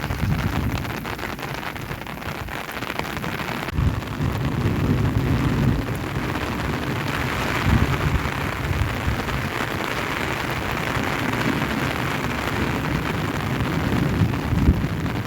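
Heavy rain pouring down steadily, with uneven low rumbling underneath.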